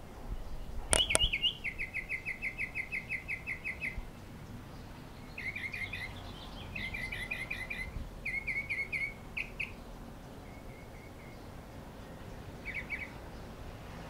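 A small bird chirping. It gives a rapid run of short, evenly spaced chirps, about six a second, then several shorter bursts of chirps with pauses between. Two sharp clicks, the loudest sounds, come about a second in, just before the first chirps.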